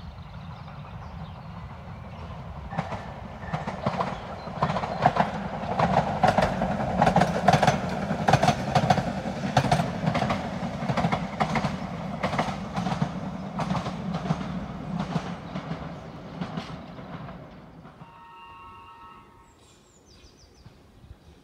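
Ex-London Underground 1938 tube stock electric train passing: its wheels click over the rail joints about twice a second above a low running hum. The sound swells to its loudest about halfway through and fades away before the end.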